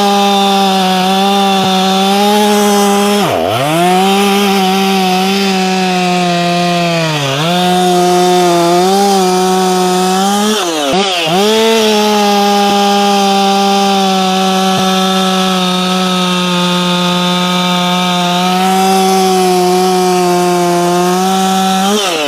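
Ported Efco 165 two-stroke chainsaw running at high revs, around 12,000 RPM, while cutting wood under light pressure. Its pitch dips sharply and recovers three times, then falls away as the throttle is released at the end.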